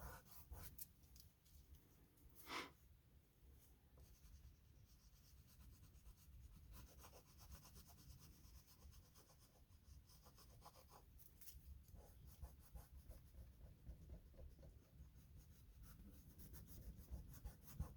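Faint scratching and rubbing of oil pastel being worked onto paper in irregular strokes, with one louder stroke about two and a half seconds in.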